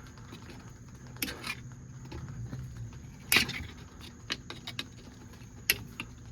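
Scattered light clicks and scrapes of a hand tool working an old rubber seal out of a brake caliper. The sharpest clicks come about three seconds in and again near the end.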